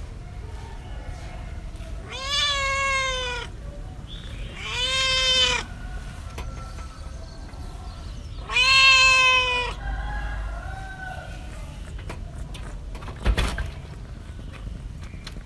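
A cat meowing: three drawn-out meows a few seconds apart, each rising then dipping slightly in pitch, with a fainter fourth call just after the third. A short sharp knock comes near the end.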